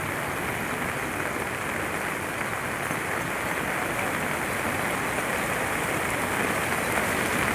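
Steady rushing of a river in monsoon flood, its fast, swollen water making an even, unbroken noise.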